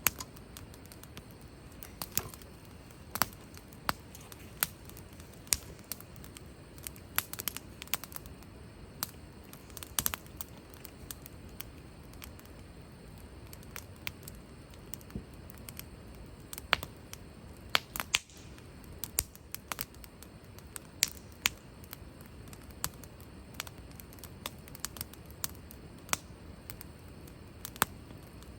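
Wood fire crackling, with irregular sharp pops and snaps over a steady low background hiss.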